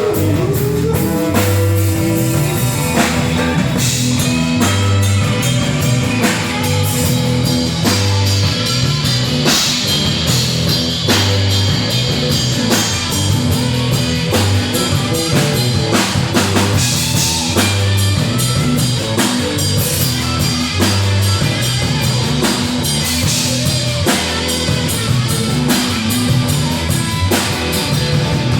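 A band playing an instrumental passage: drum kit and guitar with a bass line repeating the same riff.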